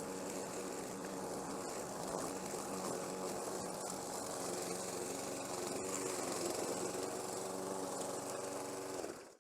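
Self-propelled rear-wheel-drive walk-behind lawn mower's engine running steadily under load while cutting high grass on a slope.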